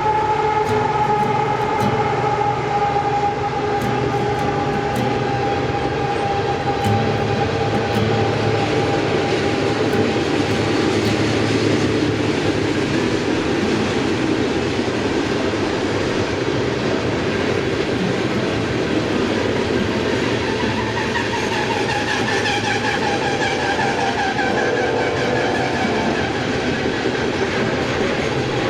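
A train passing on the tracks, with a continuous rumble and clatter of the rail cars and high steady wheel-squeal tones that fade over the first ten seconds and come back in the second half.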